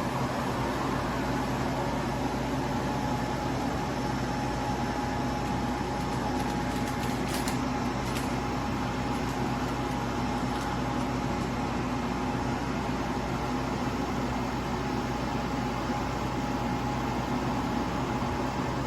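Portable spot air conditioner running steadily: a constant fan and compressor hum with a steady whining tone over it.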